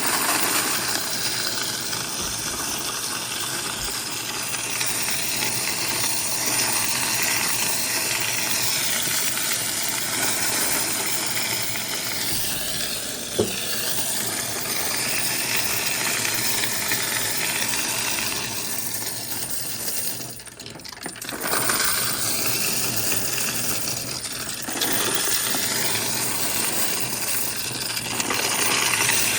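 A large batch of quarters clattering and rattling continuously as they are poured and counted. The rattle thins out briefly about twenty seconds in, then picks up again.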